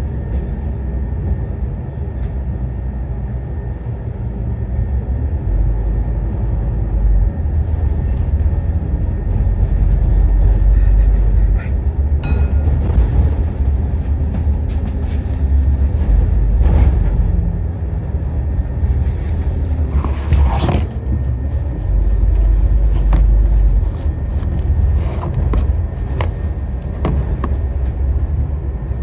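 Scania N230UD double-decker bus on the move, its five-cylinder diesel engine running as a heavy low rumble that swells and eases several times as it pulls away and slows. Occasional clicks and rattles are heard, and there is a short hissing burst about two-thirds of the way through.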